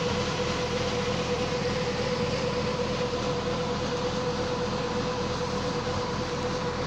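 Steady mechanical drone with a constant hum, running evenly without change over a rushing noise.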